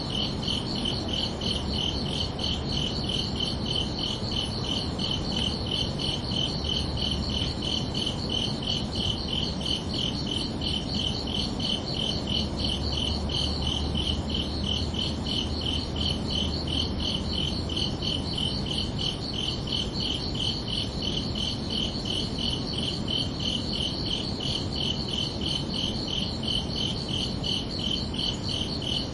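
Crickets chirping in a steady, evenly spaced rhythm of high-pitched pulses, over a faint low background rumble.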